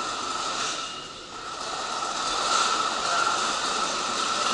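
Steady hum and hiss of an electric train standing at a station platform, its on-board equipment running, with a constant mid-pitched tone through it.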